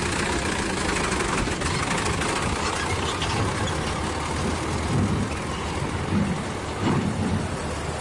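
Diesel engine of a light-duty dump truck running at idle, a steady low rumble with a few brief louder swells in the second half.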